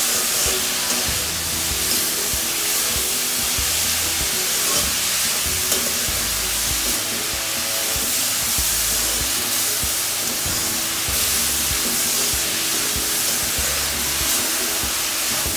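Grated carrots sizzling in hot ghee in an aluminium kadhai as they are stirred and roasted with a steel spatula, the first roasting stage of carrot halwa. Background music with a steady beat plays over it.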